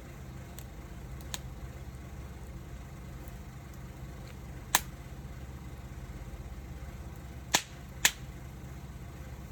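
Wood fire crackling, giving a few sharp, isolated pops: a faint one, then louder ones about five seconds in and twice near the end, over a steady low rumble.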